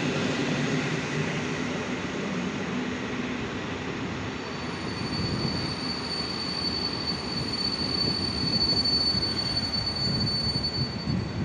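PKP Intercity EP07 electric locomotive and its passenger coaches rolling slowly into a station platform with a steady rumble. A thin, high, steady squeal sets in about four seconds in as the train slows.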